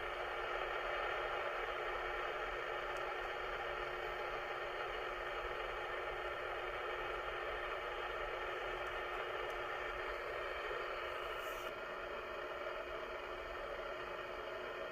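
Steady hiss and static from an air-band radio receiver tuned between transmissions, with a faint steady tone underneath.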